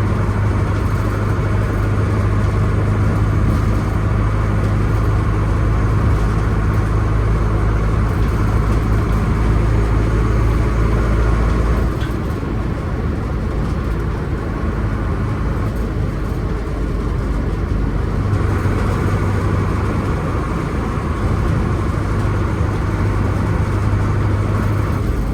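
Diesel engine of a 1988 Mercedes-Benz 811D fire truck running steadily. It drops a little in level about twelve seconds in and picks back up about six seconds later.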